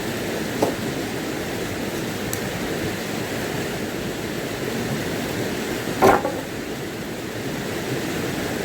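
Steady rushing noise of water, from heavy rain or the river. Two short knocks cut through it, a faint one near the start and a louder one about six seconds in.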